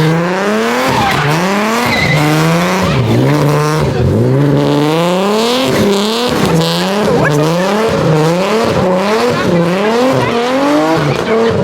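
Car engine revving hard and easing off over and over, its pitch rising and falling about once a second, with tires squealing as it spins on the pavement.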